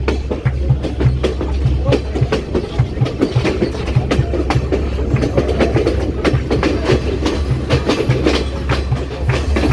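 Passenger train running along the track, its wheels clacking over the rail joints with a steady low rumble underneath.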